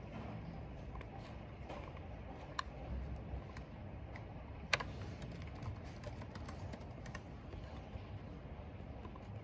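Typing on a computer keyboard: irregular keystrokes, one sharper click about halfway through, over a steady low rumble of wind.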